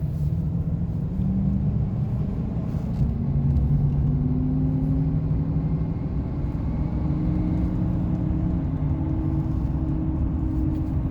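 Chevrolet Silverado 2500HD CNG pickup cruising in four-wheel drive: a steady low drone from its V8 and drivetrain, with a pitch that slowly rises and falls.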